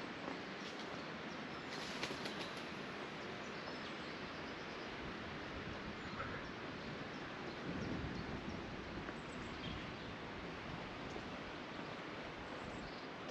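Outdoor ambience: a steady rushing hiss with a few faint, short bird chirps and a low swell of sound about eight seconds in.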